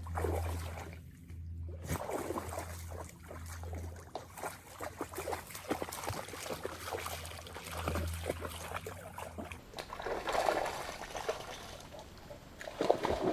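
Shallow creek water splashing and sloshing in short irregular strokes as a dog wades out into the creek, under a low steady hum that stops about ten seconds in.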